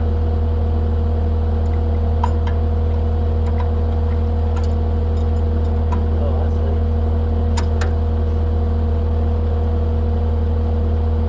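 Heavy equipment engine idling steadily with an even low hum and a few faint ticks.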